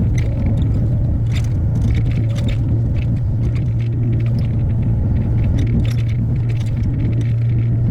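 Hyundai HX60A mini excavator's diesel engine running steadily under work, with scattered short metallic clinks and scrapes.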